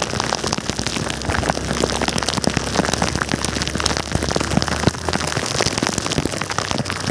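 Heavy rain striking close to the microphone in a dense, steady crackle of drop hits, over a steady low rumble.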